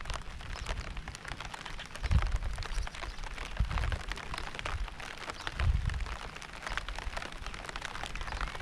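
Steady rain, with many separate drops clicking close by over an even hiss. Low rumbling swells rise three times, about 2, 3.5 and 6 seconds in.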